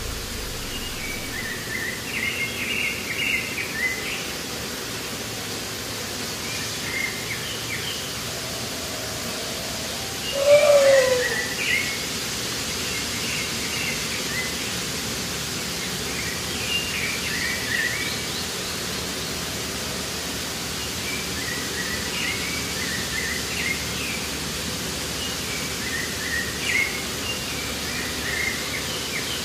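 Outdoor nature ambience: a steady hiss with a songbird's short chirping phrases recurring every four to five seconds. About ten seconds in comes a louder, lower call that falls in pitch.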